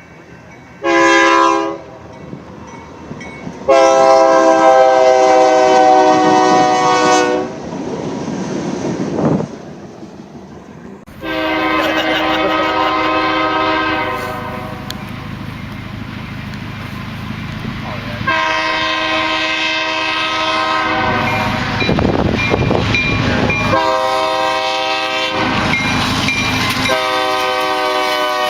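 Locomotive air horn sounding a series of blasts: a short one about a second in, a long blast of several seconds, then more long blasts later. In the gaps there is the rumbling rush of a train passing.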